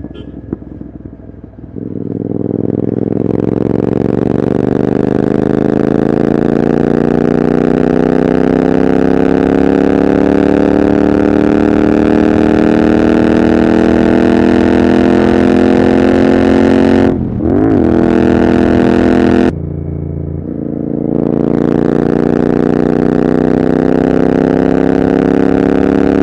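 Royal Enfield Continental GT 650's parallel-twin engine running through its exhaust. It picks up load about two seconds in and pulls with a slowly climbing pitch. About two-thirds through it dips briefly, then drops to a lower, quieter note for a couple of seconds before climbing again.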